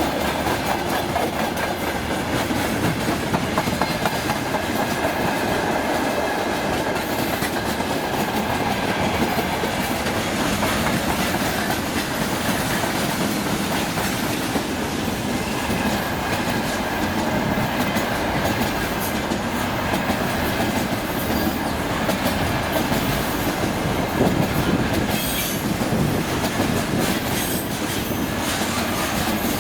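Loaded freight train rolling past steadily, its wheels clicking and clacking over the rail joints, with a faint thin wheel squeal running through the rumble.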